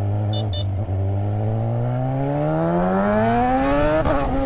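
Sport motorcycle engine accelerating hard, its pitch climbing smoothly for about three seconds, then dropping away near the end. Two short high beeps sound near the start.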